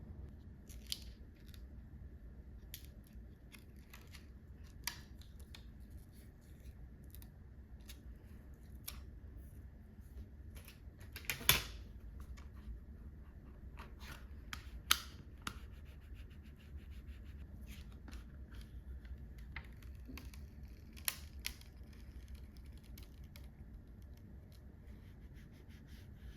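Scissors cutting paper in scattered short snips, with a louder, longer cut about eleven seconds in and a sharp snip a few seconds later.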